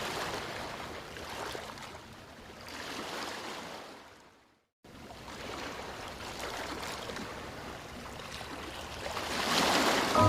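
Rushing water, a steady hiss of flowing water. It fades out and stops for about half a second near the middle, then comes back and swells toward the end.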